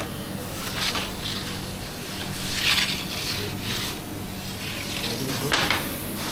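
Kitchen work noises: a few short scraping sounds over a steady low hum.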